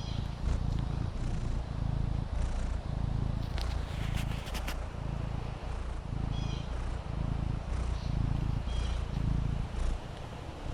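Maine Coon cat purring: a low rumble that swells and eases with each breath, a little faster than once a second, dying away near the end.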